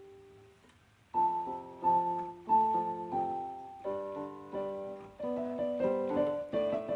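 Piano music: after a quiet first second, chords and melody notes are struck in steady succession, each ringing and fading.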